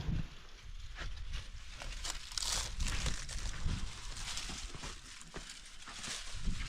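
Irregular rustling and crinkling, like material being handled, with scattered light knocks.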